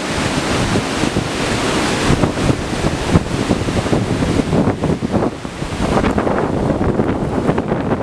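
Storm-force wind blowing hard and buffeting the microphone in a continuous rush that swells and eases with the gusts, dipping briefly a little past halfway.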